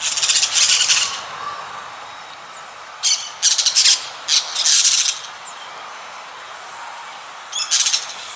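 Parrots squawking in harsh, high screeches: a burst at the start, a cluster about three to five seconds in, and another near the end, over a steady hiss.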